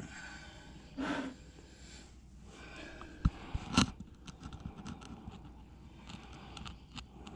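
Small clicks, scrapes and knocks of things being handled by hand, with two sharper knocks about half a second apart midway through.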